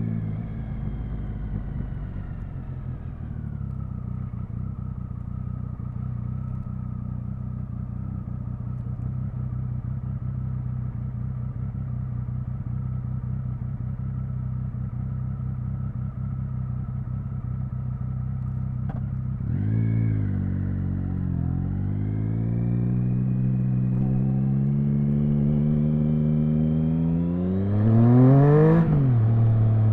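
Triumph Speed Triple 1050's inline three-cylinder engine on a ride: the revs fall and then hold steady and low for about fifteen seconds. A brief blip of throttle comes about twenty seconds in, then the revs climb steadily under acceleration, peak near the end and drop sharply.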